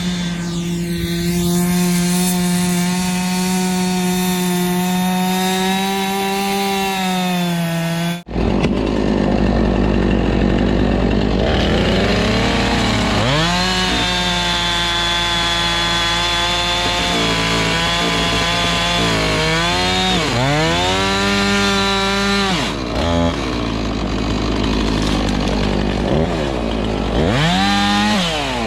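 Two-stroke chainsaw running at high revs for several seconds. After an abrupt cut it is heard cutting logs, its pitch dipping under load and climbing back again and again, over a low steady rumble.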